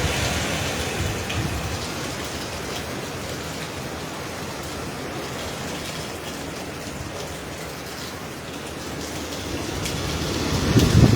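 Hurricane rain and wind: a steady downpour, with a gust of wind swelling in near the end.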